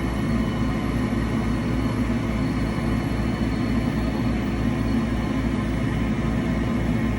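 Engraver running, with a steady mechanical grinding noise from its drive.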